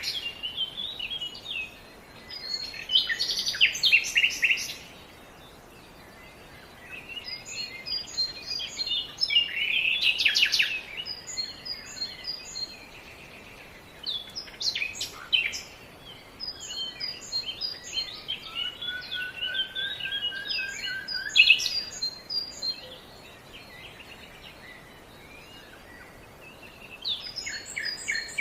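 Songbirds singing in bursts of quick, high chirping phrases every few seconds, with a quieter lull near the end, over a steady outdoor hiss.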